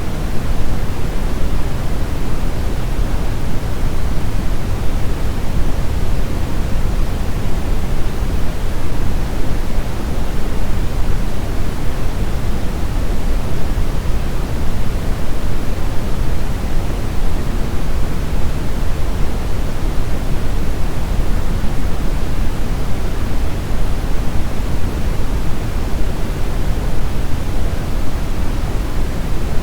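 Steady brown noise: a deep, even rushing hiss, strongest in the low end and falling away toward the highs, with no changes.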